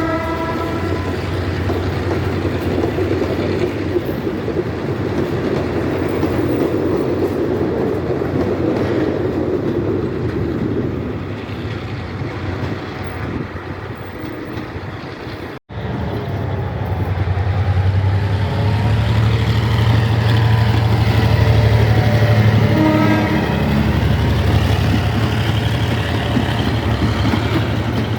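Belgrano Norte line diesel commuter trains. A horn blast fades out right at the start, then a train rumbles past. After a sudden cut about halfway through, a locomotive's diesel engine drones low and steady as another train runs by.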